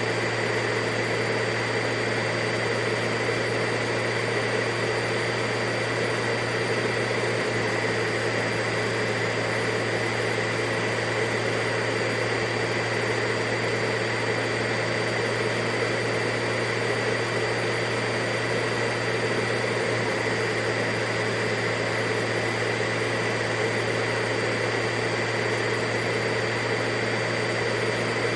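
Vacuum cleaner motor running steadily, a continuous even rushing of air with a constant hum and a high whine.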